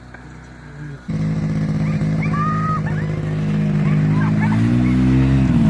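Ski-Doo Bravo snowmobile engine running, coming in abruptly about a second in, then revving up and easing off near the end, with short dog yelps over it.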